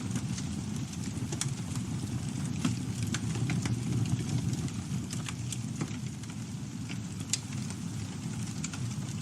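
Campfire burning: a steady low rumble of flame with irregular sharp crackles and pops from the burning wood, one louder pop about seven seconds in.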